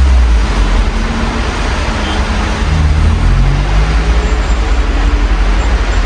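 Steady rain heard through an open window, with road traffic and a vehicle engine adding a low rumble.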